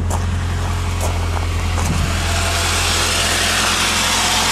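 1995 Saturn S-series 1.9-litre four-cylinder engine idling steadily, its accessory belt running, with a few light clicks in the first two seconds; the running noise grows louder and hissier after about two and a half seconds. The owner puts a whine from this engine down to a bad alternator bearing.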